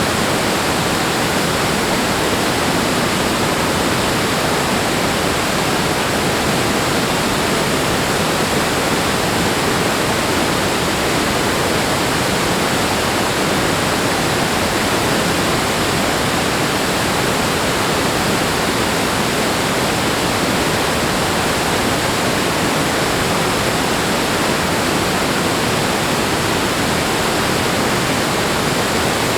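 Rushing water making a steady, even roar with no swells or breaks.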